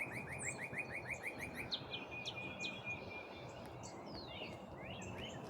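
Songbirds singing in a morning chorus: a fast run of short, repeated down-slurred notes, about seven or eight a second, for the first second and a half, then assorted whistles and chirps, and another quick run of notes near the end.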